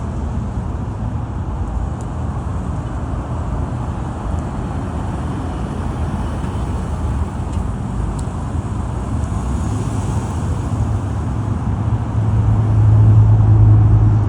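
Steady low rumble of vehicle engine noise. A deeper drone swells to its loudest about twelve seconds in, then eases off.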